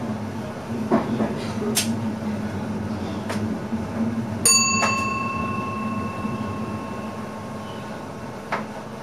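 Inside the driver's cab of an NS ICM (Koploper) electric train: a steady low running hum with scattered knocks and rattles. About halfway through, a single bell-like ding rings out and fades slowly over several seconds.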